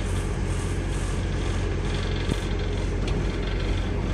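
Steady running noise of a passenger train at speed, heard inside the carriage: an even low rumble with a brief click about two seconds in.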